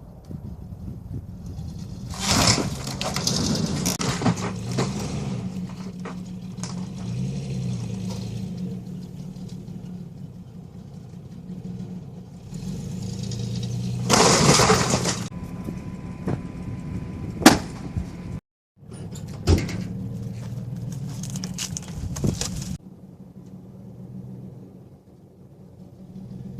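An old truck's engine running and revving under load as it tears down a shed, with loud crashes of the structure breaking a couple of seconds in and again about halfway, and sharp cracks a little later.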